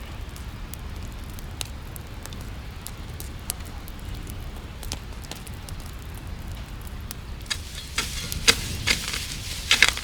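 Campfire crackling with scattered sharp pops over a low steady rumble. About seven and a half seconds in, the crackling becomes louder and denser, with a hiss.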